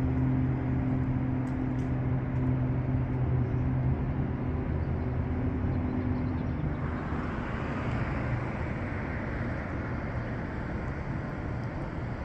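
Street traffic: a steady engine hum that fades over the first few seconds, then a vehicle passing by with a swell of road noise in the second half.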